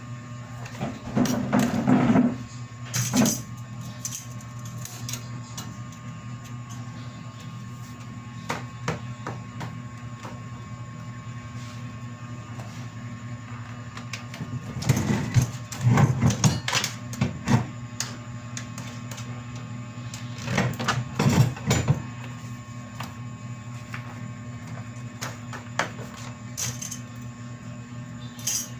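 Printer running with a steady low hum, its mechanism clattering in louder bursts about two seconds in, around the middle, and again about two-thirds through.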